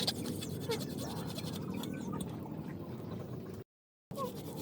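Young animal suckling at its mother, with steady wet slurping and a few faint small squeaks; the sound cuts out completely for about half a second near the end.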